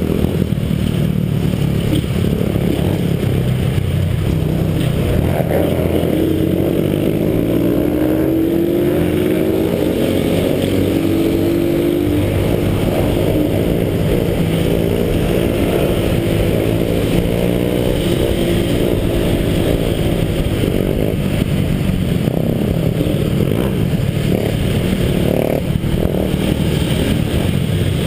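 Motorcycle engines running steadily, with one revving up and down in pitch partway through.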